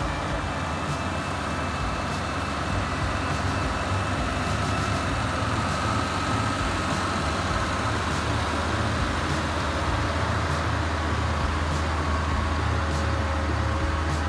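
Heavy vehicle engine running steadily, a continuous low drone that grows slightly louder.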